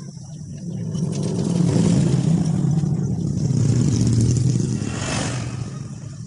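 A motor vehicle passing by, its engine drone swelling up over a couple of seconds and then fading away.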